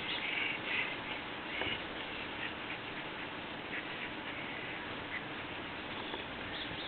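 Dog at play in a tug-of-war game over a toy: several short, high-pitched sounds in the first two seconds, fainter ones after.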